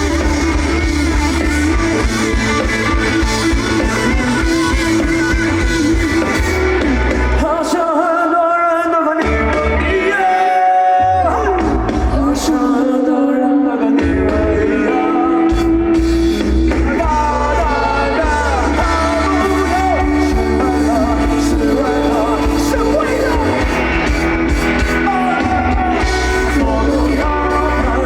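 Live pop-rock band performance: a singer over electric guitar, bass and drums. About eight seconds in the bass and drums drop out for several seconds, leaving voice and guitar, then the full band comes back in.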